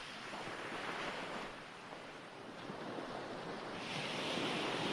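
Recorded ocean waves washing on a shore: a steady hiss of surf that ebbs a little around the middle and swells with a new wave near the end.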